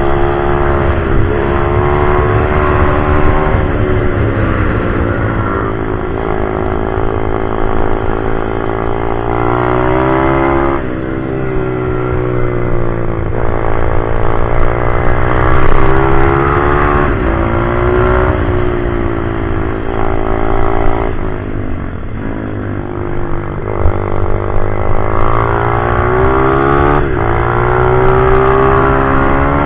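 A pit bike engine running hard, its pitch climbing as it revs and then dropping sharply at each gear change or when the throttle is closed, over and over.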